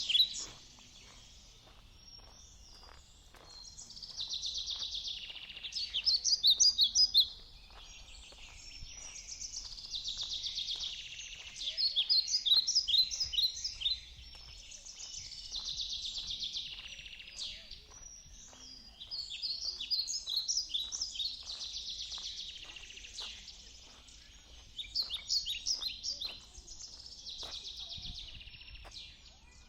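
A songbird singing the same phrase over and over every few seconds, each phrase a buzzy run followed by quick sharp notes, over faint regular footsteps on a path.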